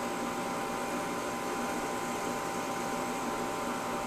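Steady mechanical hum with a few faint held tones and no change throughout.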